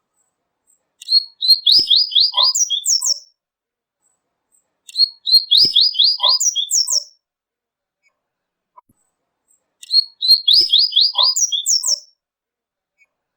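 Double-collared seedeater (coleiro tui-tui) singing three short song phrases about four seconds apart. Each phrase is a quick run of chirping notes followed by a couple of higher notes.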